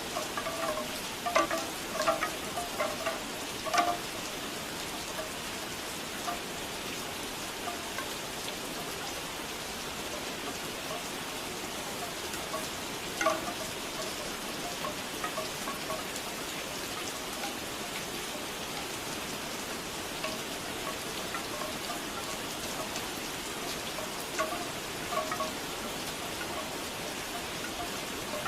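Steady rain with bamboo wind chimes knocking now and then: a cluster of strikes in the first few seconds, a few around the middle, and more near the end.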